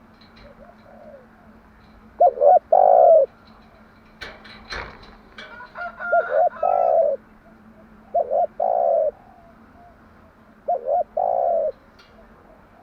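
Spotted dove cooing: four phrases, each two quick notes followed by a longer note, repeated every two to three seconds. Short higher chirps and clicks are heard between the second and third phrases.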